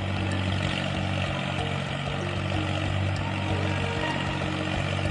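Small motor of a mini tractor running steadily, with background music.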